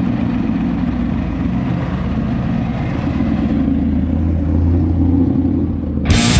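Pontiac Firebird's engine running at low speed as the car rolls slowly past close by, a steady low rumble that grows louder about two-thirds of the way through. Rock music comes in just at the end.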